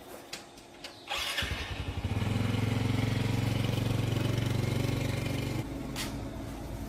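A small motorcycle engine starting about a second in, running fast for a few seconds, then dropping back to a lower idle near the end.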